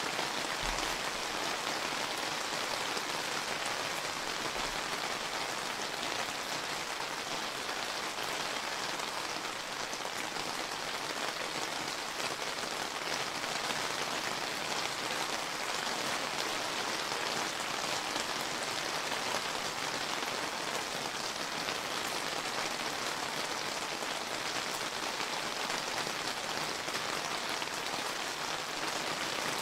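Steady rain pattering on a surface, an even hiss of many drops with no let-up or change.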